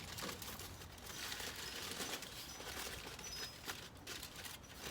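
Quiet outdoor background noise with a few faint light clicks and rustles.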